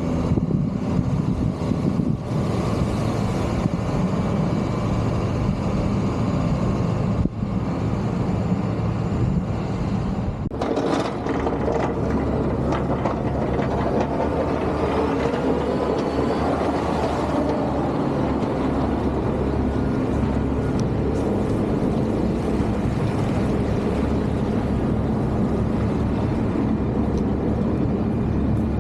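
Heavy snow-removal machinery with diesel engines running steadily, the sound shifting abruptly a few times between shots.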